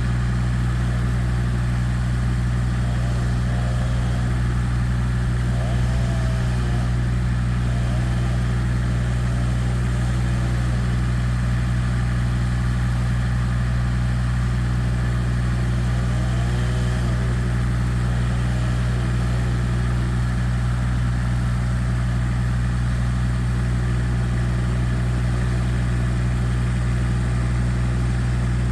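A large engine idling steadily with a constant low drone.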